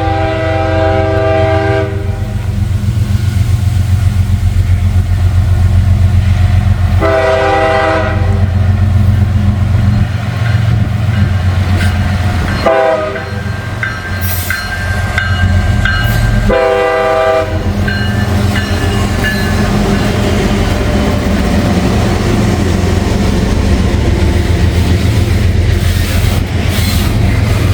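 Diesel freight locomotive blowing its horn for a grade crossing in the long, long, short, long pattern: a blast that ends about two seconds in, a long one, a short one and a final long one. Under it runs the steady rumble of the locomotive's engine and the clatter of the train's wheels on the rails.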